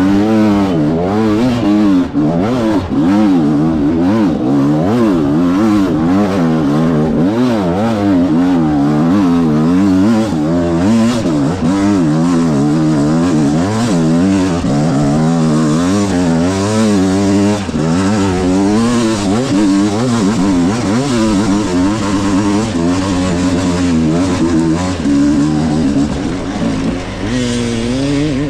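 300cc two-stroke dirt bike engine revving up and down under constant throttle changes, its pitch rising and falling about once a second while being ridden through rough enduro terrain. Near the end the revs drop and hold lower and steadier.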